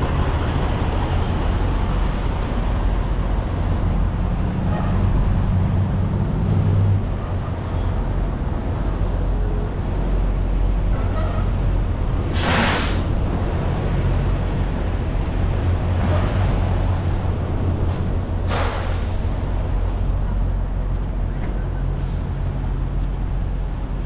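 Steady low rumble of idling big-rig diesel engines, with two short hisses of released air, about twelve and eighteen seconds in.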